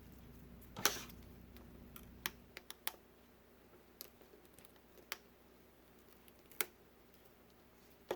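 Small tool clicking and tapping against the glued metal home-button bracket on an iPad Pro screen as it is pried free: light, sharp clicks at irregular spacing, with a quick run of three or four about two and a half seconds in.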